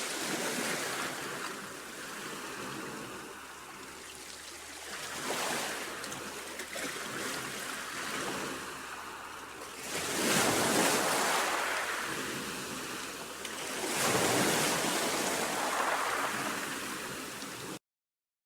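Baltic Sea surf washing ashore, swelling in loud surges a few seconds apart. The sound cuts off suddenly near the end.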